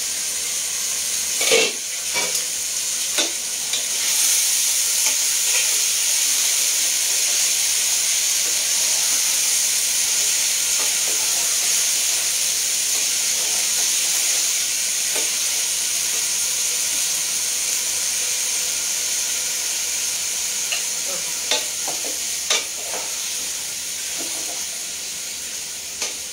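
Spiced meat sizzling in a pot on a gas stove, a steady frying hiss that grows louder about four seconds in, while a spatula stirs and scrapes the pot with a few clinks.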